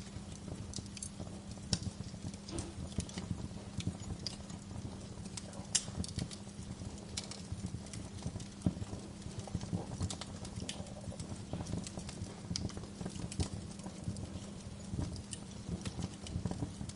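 Wood log fire in a fireplace crackling, with irregular sharp pops and snaps several times a second over a steady low rumble.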